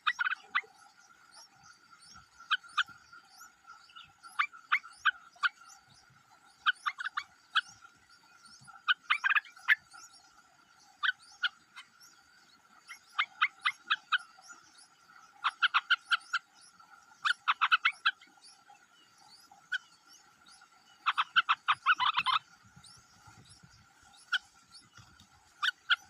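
Short, sharp animal calls in rapid bursts of two to eight, repeating every second or two, over a steady high-pitched background drone.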